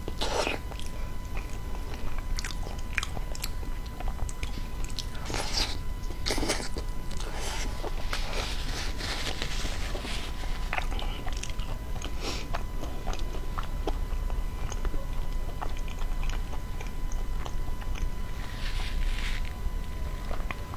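Close-miked chewing and biting of soft food, with irregular short mouth clicks and a few louder stretches. A faint steady high tone runs underneath.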